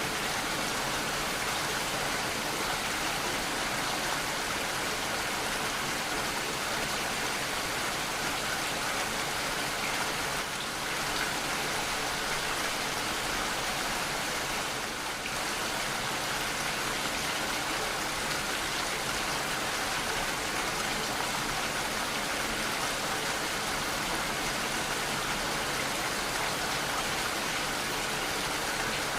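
Steady, heavy rainfall: an even wash of rain falling on surfaces, with no breaks.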